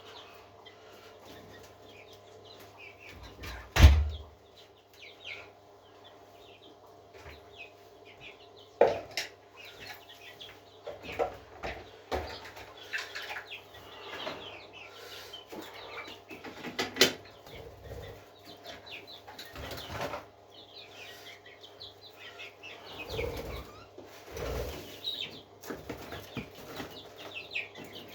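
Parrots chirping in many short calls, with a few sharp knocks (the loudest about four seconds in) over a steady low hum.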